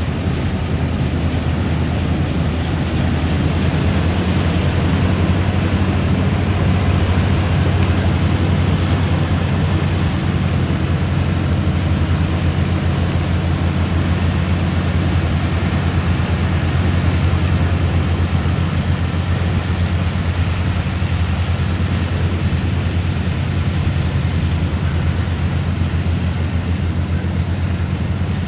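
Combine harvester running steadily at working speed, a constant low engine drone with a broad machinery hiss over it.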